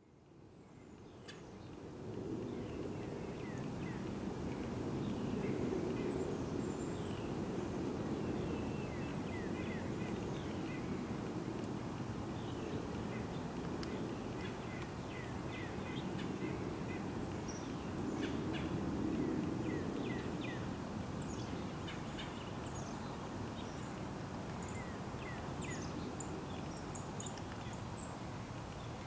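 Small birds chirping and calling in short high notes, scattered throughout, over a steady low outdoor rumble. The sound fades in over the first two seconds.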